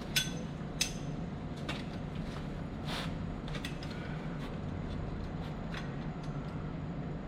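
Sharp metal clinks and taps, with short ringing, from tools working on metal, the two loudest about a quarter and three quarters of a second in, then a few lighter ones. A steady low machinery hum runs underneath.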